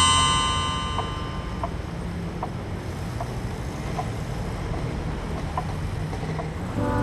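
Faint, evenly spaced ticks, about one every 0.8 s, over a steady low rumble. A bright ringing tone fades out at the start, and music comes in near the end.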